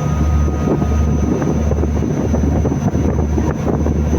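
A boat's engine running with a steady low drone, with wind buffeting the microphone.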